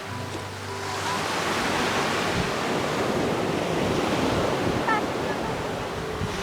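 Ocean waves on a beach: a wave swells and breaks with a rush of surf about a second in, then washes back out, fading near the end.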